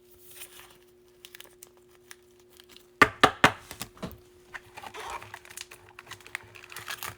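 Trading-card pack wrappers crinkling and rustling as the packs are handled. A few loud, sharp crackles come about three seconds in, after a quieter start.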